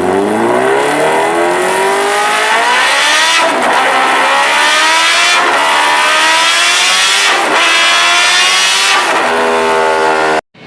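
Yamaha WR 250F's single-cylinder four-stroke engine accelerating hard through the gears. The pitch climbs, drops back at each shift (three shifts about two seconds apart), then levels off and cuts off abruptly near the end.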